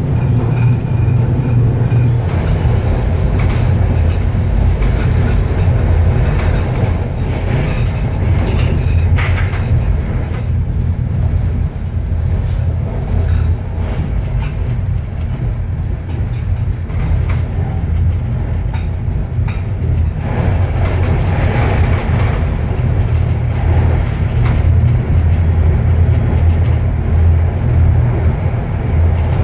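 České Dráhy EuroCity passenger train running along the line, heard from on board: a steady low rumble of wheels on rails and coach noise, unbroken throughout.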